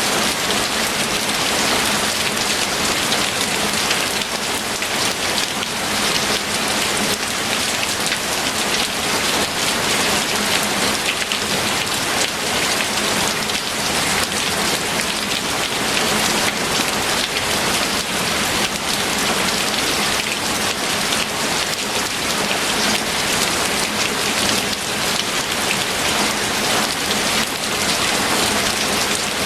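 Steady heavy rain falling on a surface, a dense even patter that holds at the same level throughout.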